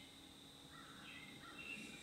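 Wild songbirds singing faintly: a few short chirped notes begin just under a second in, over a faint steady high tone.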